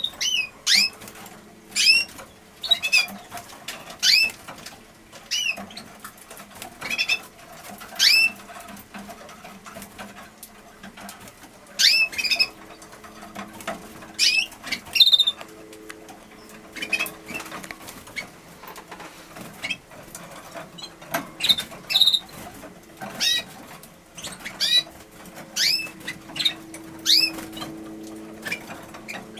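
Red mosaic canaries giving short, high chirps that sweep downward in pitch, about one or two a second with pauses, among scattered small clicks and rustles of birds moving in the cage.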